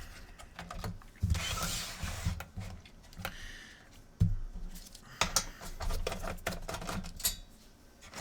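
Handling noise from taking apart a PS4: scattered small clicks and knocks of plastic and metal parts, with a brief scraping rustle about a second in and a sharper knock about halfway through.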